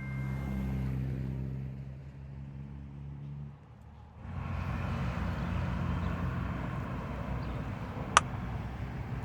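A motor vehicle's engine running with a steady low hum, which fades out about three and a half seconds in. A rougher low rumbling noise follows, and there is one short sharp tick near the end.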